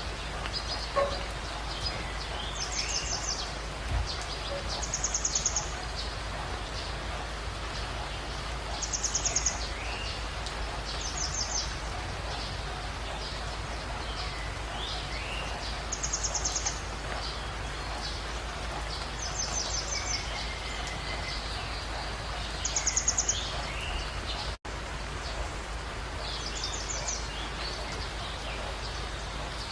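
Birds calling in a jungle dawn chorus over a steady background hiss of rain. A short, high, pulsing trill repeats every couple of seconds among scattered lower chirps and whistles. The sound drops out for an instant about two-thirds of the way through.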